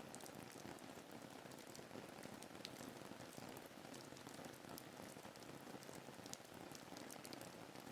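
Faint, steady rain ambience: an even soft hiss of rain with scattered light drop ticks.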